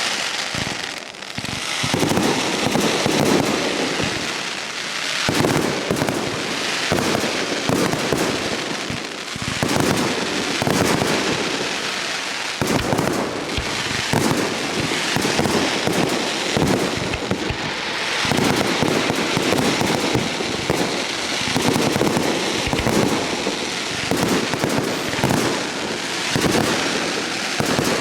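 Professional fireworks display: a dense, continuous barrage of shell bursts and crackling, with sharp bangs following one another without a break.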